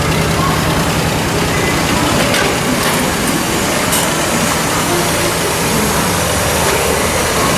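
1958 Chrysler Imperial's 392 V8 idling steadily, with an even low rumble and a few faint clicks about two to four seconds in.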